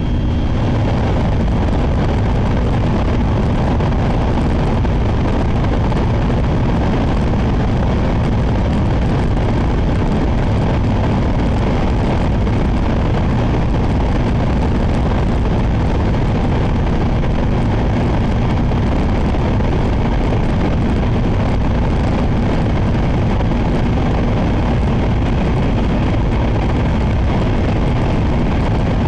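Shinkansen train running at speed, heard from inside the passenger cabin: a loud, steady rumble and rush of wheel, air and track noise that stays even throughout.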